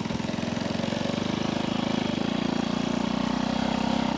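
1964 Honda C200's 90cc single-cylinder four-stroke engine running with a steady, even pulse as the motorcycle pulls away in first gear.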